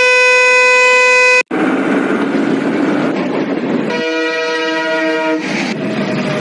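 Two horn blasts: a steady single-note horn that cuts off abruptly about a second and a half in, then, after a stretch of rushing traffic-like noise, a chord horn of several notes sounding for about a second and a half, starting about four seconds in.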